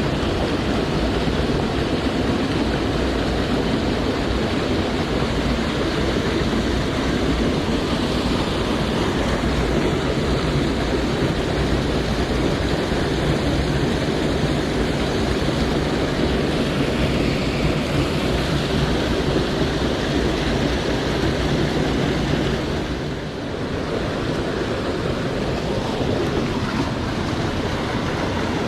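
Steady rush of a mountain stream's flowing water, with a brief dip in level about 23 seconds in.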